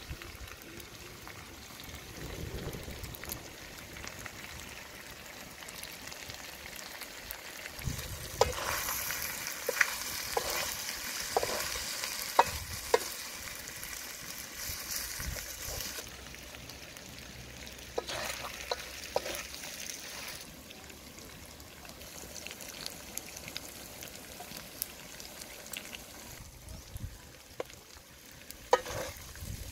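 Catfish pieces frying in a metal wok, with a steady sizzle that is loudest for several seconds in the middle. Over it, a spatula scrapes and clinks against the wok as it stirs and scoops the fish.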